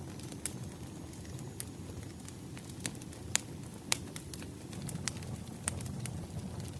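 Wood fire crackling: a steady low rumble of flames with irregular sharp pops, the two loudest about three and a half and four seconds in.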